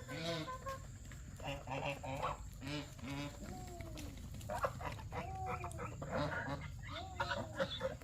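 Geese honking, a quick run of short calls one after another.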